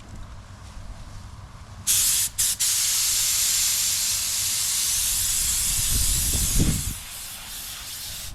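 Paint spray gun hissing as it sprays: it starts about two seconds in, cuts out twice in quick trigger blips, then sprays steadily for about four seconds before stopping, with a low rumble just before it stops.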